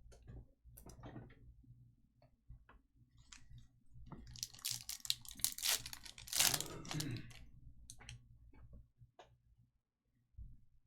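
A foil trading-card pack wrapper being torn open and crinkled, loudest from about four to seven and a half seconds in, with scattered light clicks of cards being handled around it.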